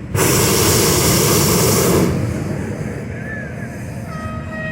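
Hot air balloon propane burner firing in one blast of about two seconds that starts and cuts off sharply.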